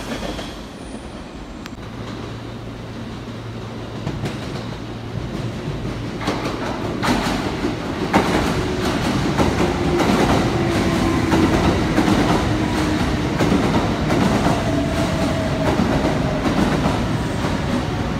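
Kintetsu electric train rolling along the platform track, its wheels clattering over rail joints and points, growing louder from about six seconds in, with a faint steady whine underneath.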